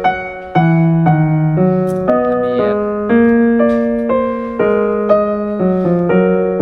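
Background piano music, chords changing about every half second to a second.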